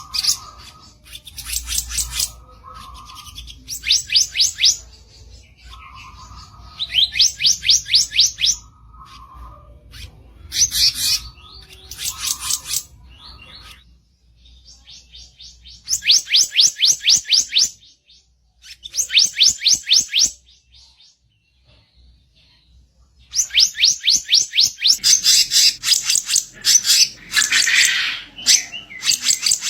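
Bar-winged flycatcher-shrike (kicap ranting) singing a harsh song of rapid, high trills in repeated bursts of about a second and a half. The trilling turns denser and longer in the last few seconds.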